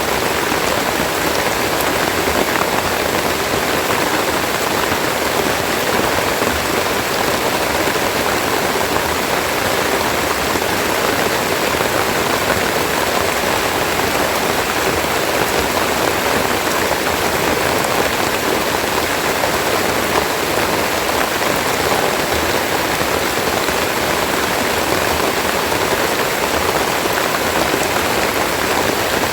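Steady, heavy rain falling, a dense even hiss of countless drops.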